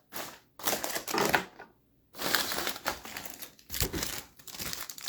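Thin plastic crinkling and rustling in a series of short, uneven bursts as a trading card is handled and slid into a plastic card sleeve.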